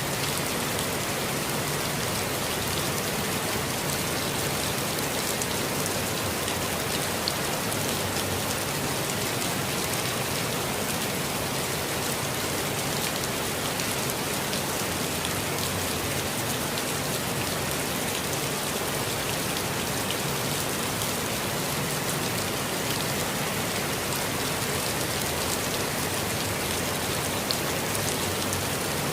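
Steady, even rainfall with a few sharper drops landing now and then.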